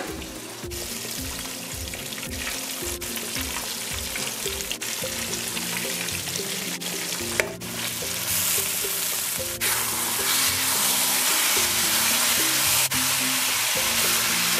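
Fish curry simmering and sizzling in a nonstick wok, growing louder and hissier after the glass lid is lifted about halfway through, with a sharp knock just before. Background music with a steady beat plays underneath throughout.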